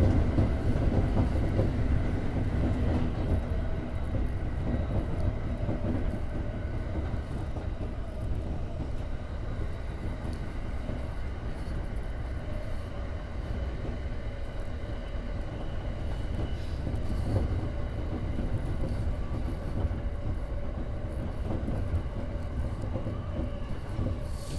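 Electric commuter train running along the line, heard from inside its front car: a steady rumble of wheels on the rails with a faint steady whine above it.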